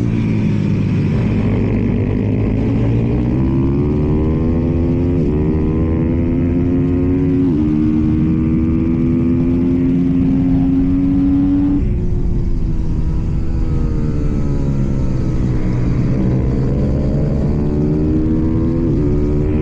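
KTM supermoto motorcycle engine at racing speed. It revs up through two quick gear changes, holds high revs, drops away, then climbs again with another upshift near the end.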